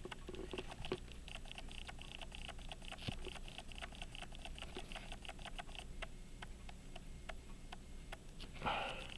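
Faint, rapid light ticks and small clicks from work on a pocket-watch movement, over a low steady hum, with a brief louder rustle near the end.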